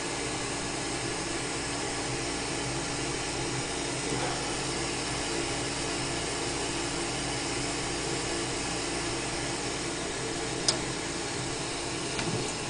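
Rheem gas furnace's draft inducer motor running steadily just after it kicks on, a constant hum with several steady tones and an internal rattle caused by its vibration, which the owner suspects means the inducer may be going out. A single sharp click about ten and a half seconds in.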